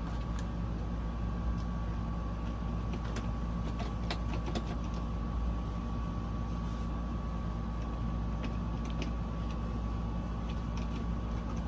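Steady low mechanical hum, like a motor or engine running at idle, with a few faint light clicks and knocks scattered through it.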